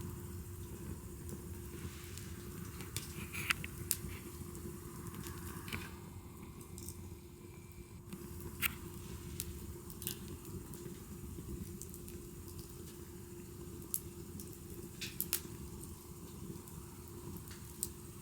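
Wood fire crackling, with scattered sharp pops over a low steady rumble; a few louder pops come about three and a half seconds in and again about fifteen seconds in.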